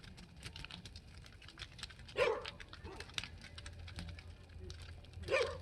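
A dog barks twice, about three seconds apart, over the steady crackle of a bonfire.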